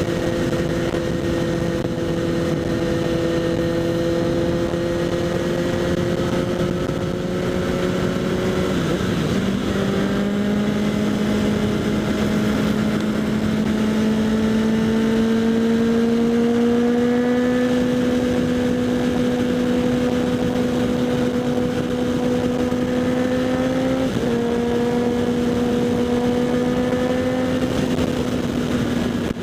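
Kawasaki Z800's inline-four engine through a LeoVince SBK exhaust, ridden at steady throttle with wind noise on the helmet-mounted microphone. About nine seconds in the engine note falters and settles higher, as at a gear change, then climbs slowly and steps down a little later on.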